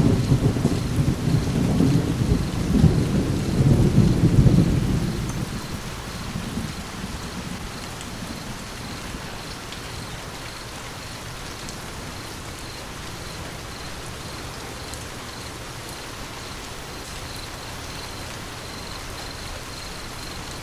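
Steady rain with a low rumble of thunder over the first five seconds or so, fading out by about seven seconds in, then the rain alone.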